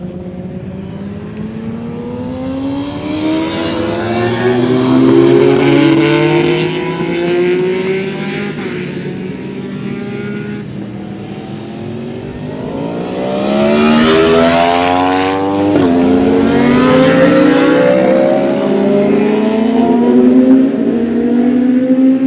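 Track-day motorcycles accelerating along the circuit, engine pitch climbing through the revs and dropping briefly at each upshift. The sound is loudest as bikes come past about five seconds in and again from about fourteen seconds.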